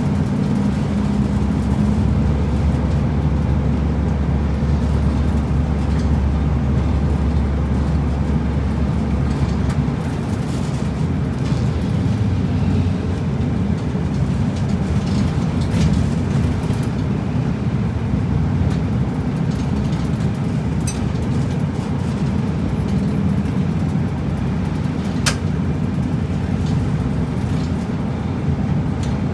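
Route bus running, heard from inside: steady engine rumble and road noise. The low engine drone is strongest for about the first ten seconds, then eases, and a sharp click sounds about 25 seconds in.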